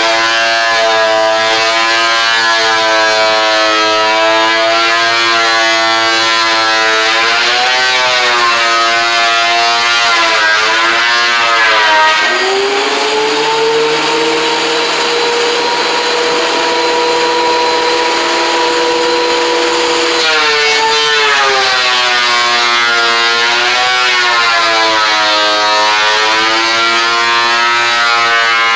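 Electric woodworking power tool running with a loud, wavering motor whine. About twelve seconds in, the pitch drops and holds lower and steadier for about eight seconds, typical of the motor slowing under load as a board is fed through, then climbs back.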